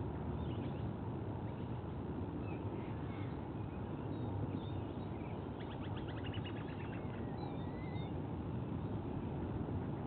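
Faint bird calls over a steady low outdoor rumble: scattered short chirps, a rapid chattering run about five and a half seconds in lasting over a second, and a couple of rising chirps just after.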